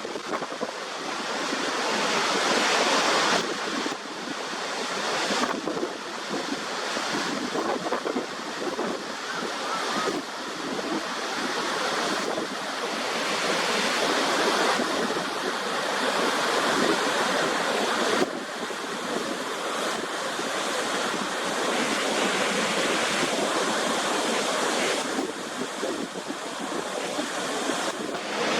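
Waterfall water rushing as a steady noise, with the sound changing abruptly several times as one recording of falling water cuts to another.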